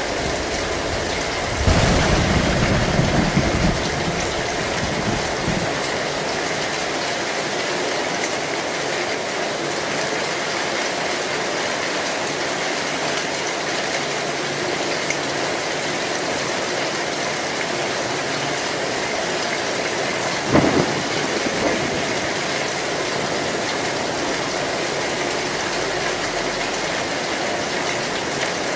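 Heavy rain falling steadily on an old tin roof, with a rumble of thunder about two seconds in and a shorter, sharp thunderclap about twenty seconds in.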